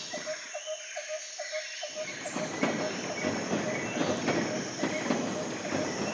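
Train running on track, a steady rumble with a regular clicking of wheels over rail joints, about three clicks a second.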